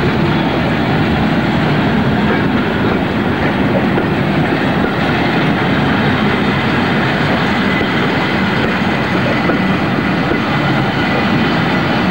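A train of passenger coaches rolling steadily past at close range, their steel wheels running on the rails.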